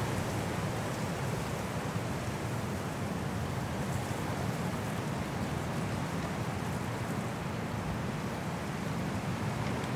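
Strong wind blowing through trees in a snowstorm, a steady rushing with a deep low rumble.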